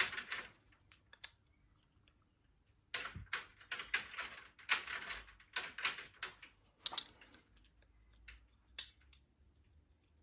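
Small metal tools and parts clinking and clattering on a workbench: a sharp knock at the start, then several seconds of rattling clicks, with a few lone clicks near the end.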